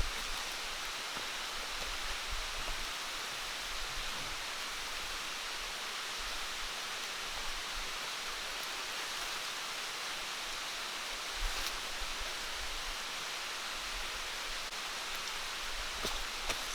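Steady, even hiss of water in the forest, with a faint knock about eleven and a half seconds in.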